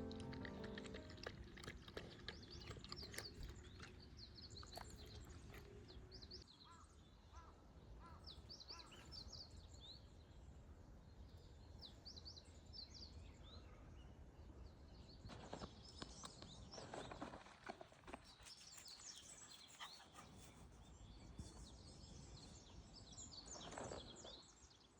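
Faint birdsong: scattered short chirps and calls from small birds over quiet outdoor background, with a few soft rustling sounds past the middle and near the end.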